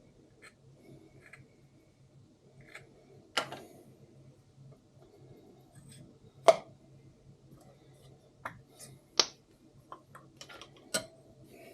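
Valves and hand tools being handled on a diesel cylinder head during valve lapping: a handful of sharp clicks and knocks at irregular intervals, the loudest about six and a half seconds in, over a low steady hum.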